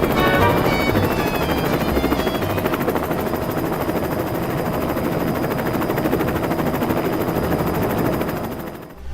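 Steady helicopter rotor sound, a dense fast chop, with a short falling run of musical notes over it at the start. It fades out just before the end.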